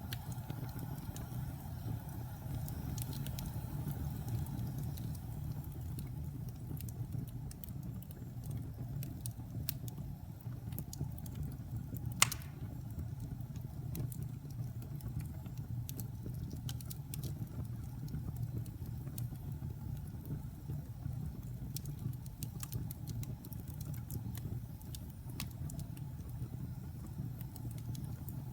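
Wood fire burning in a fireplace: a steady low rumble with scattered crackles and one sharp pop about twelve seconds in.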